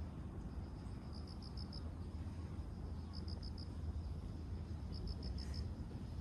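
An insect chirping in short pulsed trills of four or five high notes, repeating about every two seconds, over a steady low rumble.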